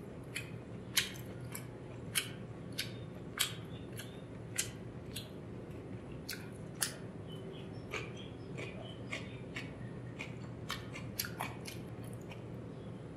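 Close-miked eating of rice and chicken curry by hand: sharp, wet mouth clicks and smacks of chewing at irregular intervals over a steady low hum.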